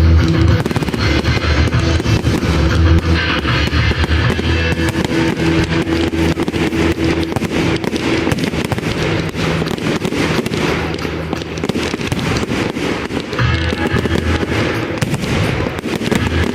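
Fireworks banging and crackling in rapid, irregular succession over loud music accompanying a fireworks display.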